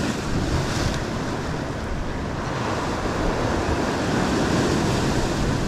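Ocean surf washing on the rocks, a steady rushing wash that swells and eases slowly, with wind buffeting the microphone.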